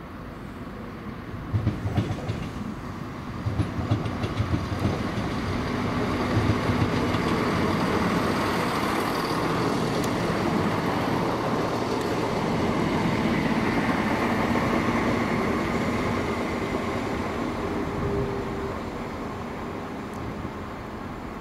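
A train passing, its wheels thumping over the rail joints early on. The rumble swells to a peak midway and fades away toward the end.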